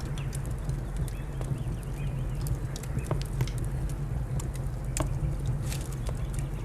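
Wood fire crackling: sharp, irregular pops and snaps over a steady low rumble.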